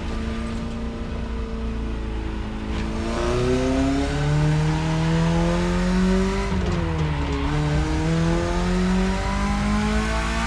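BMW E30's engine pulling hard under acceleration: revs steady for about three seconds, then climbing, falling at an upshift a little past the middle, and climbing again in the next gear.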